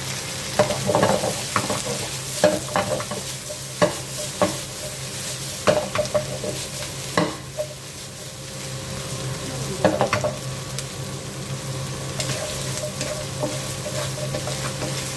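Corn and carrots sizzling in a pan of hot oil and butter while being stirred, with a dozen or so sharp clicks of the utensil against the pan, most of them in the first half.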